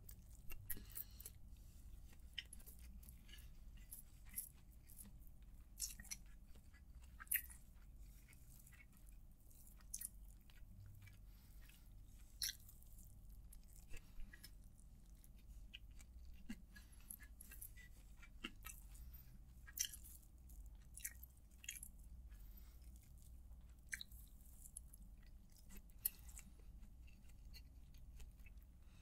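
Quiet, close-miked chewing of biryani rice eaten by hand: soft wet mouth clicks and smacks at irregular intervals over a low steady hum.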